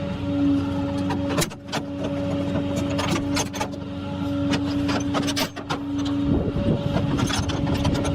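Tow truck running with a steady mechanical whine over a low rumble, with many sharp clicks and knocks scattered through it and a rattling stretch near the end.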